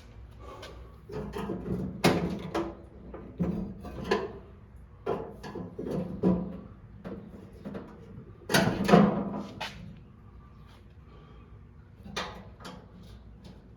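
Irregular clicks, clunks and rattles of parts and hand tools being handled while working on a lawn tractor, with the loudest clatter about nine seconds in.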